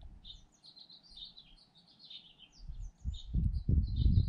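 Small birds chirping in quick, short repeated notes. About three seconds in, a loud low rumble joins them and runs on to the end.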